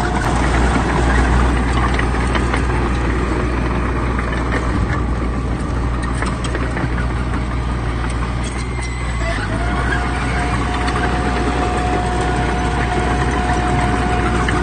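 Heavy diesel earthmoving machinery running under load: a steady low engine rumble with scattered clanks. A steady high whine drops out near the start and comes back about ten seconds in.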